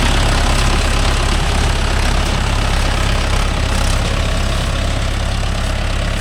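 Mahindra Yuvo Tech Plus 585 tractor's diesel engine running steadily with a low, even drone.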